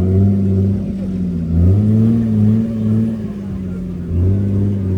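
A car engine running loudly at low speed, its throttle swelling twice, about two seconds in and again near the end.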